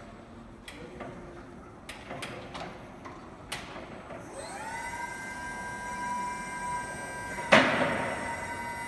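A few light clicks, then a motor spins up to a steady high whine, with one loud clunk about a second before the end.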